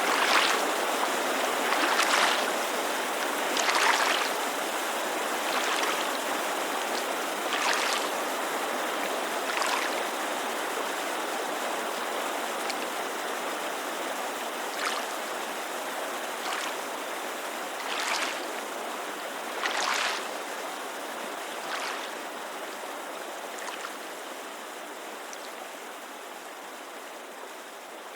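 Water lapping against a lakeshore in small splashes every couple of seconds, over the steady rushing hiss of a creek. The whole sound gradually fades out.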